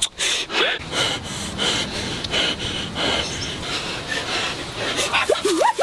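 A dog snuffling and breathing hard in quick puffs, with short rising whines near the start and again near the end.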